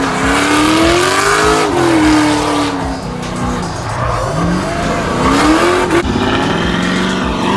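A motor vehicle's engine revving, its pitch rising and falling several times.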